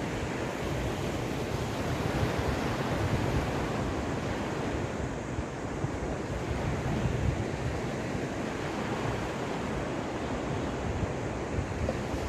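Caspian Sea surf washing onto the shore in a steady hiss with gentle swells as waves come in, over a low rumble of wind on the microphone.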